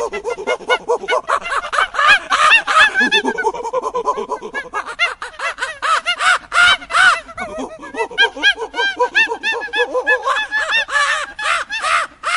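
A flock of birds calling all at once, many short, overlapping squawks and cheeps.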